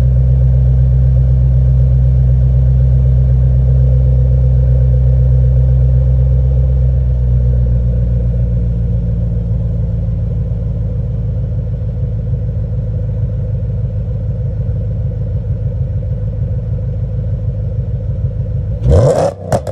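Audi B6 S4's 4.2-litre V8 idling through a straight-piped 3-inch exhaust with XS Power downpipes and resonated tips. The idle is loud and steady, settling slightly lower and rougher after several seconds. Near the end come two quick, sharp throttle blips.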